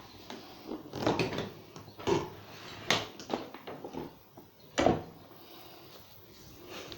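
Irregular knocks and clunks from handling the switched-off upright vacuum cleaner as it is moved back into place, about half a dozen sharp hits. The loudest comes about five seconds in.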